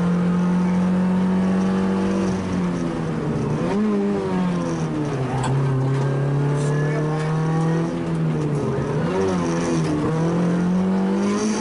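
A 1.0-litre rally car engine, heard from inside the cabin at high revs on a stage. Its pitch holds steady, drops with a couple of quick wobbles on lifting and downshifting about 3.5 and 8.5 seconds in, then climbs again as it accelerates.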